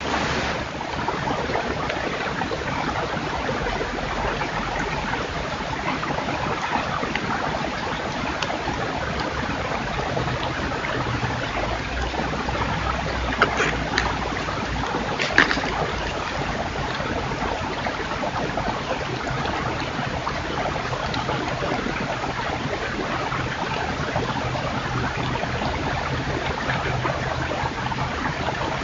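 Steady rushing noise picked up by a trail camera's microphone, with two short sharp clicks a little after the middle.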